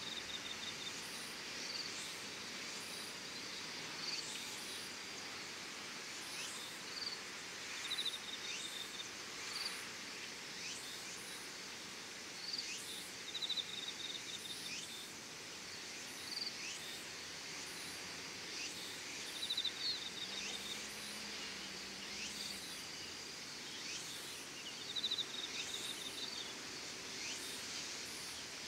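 Insects chirping and trilling in short bursts that repeat every second or two, over a steady outdoor hiss.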